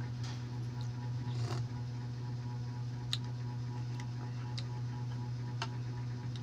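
Steady low hum with a few small, sharp clicks scattered through it and a short rustle about a second and a half in.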